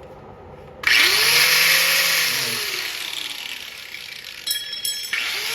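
An electric grinder with a cutoff wheel starts about a second in and cuts into thin rusted snowmobile frame steel with a loud, hissing screech. Its motor pitch rises, then sags under the load of the cut. It eases off briefly near the end, then picks up again.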